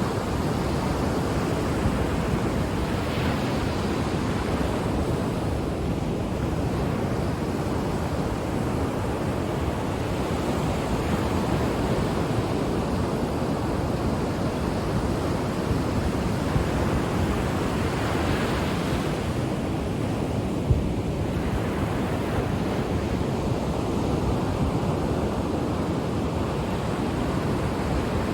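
Ocean surf: waves breaking and washing onto the shore in a continuous rush, with louder swells about three seconds and eighteen seconds in.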